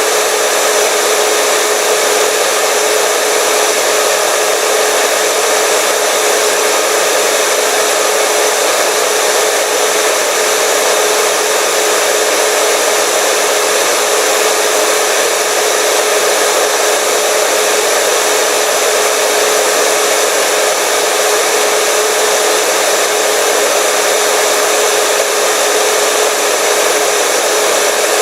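Hair dryer running steadily: an even rush of blown air with a constant motor hum and a thin high whine.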